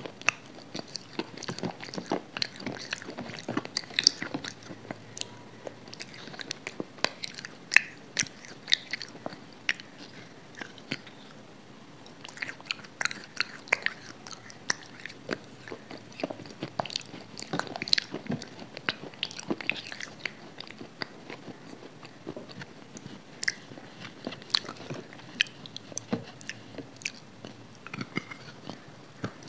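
Close-miked eating sounds: irregular crunching bites, wet chewing and mouth clicks from a person eating, with the microphone right at the mouth.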